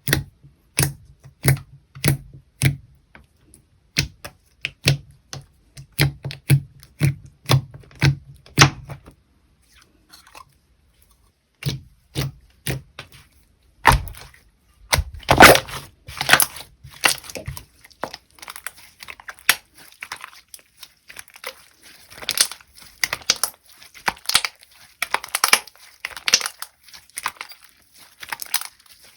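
Hands playing with slime: a run of sharp pops and clicks, about two a second, for the first nine seconds. After a short pause, a denser, busier run of pops and crackles follows from about the middle on.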